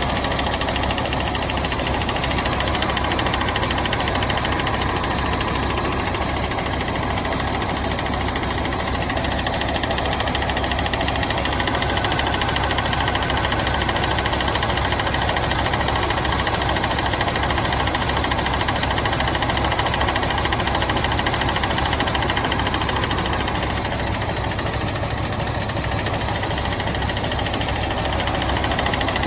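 Diesel engine of a bus running steadily while it warms up.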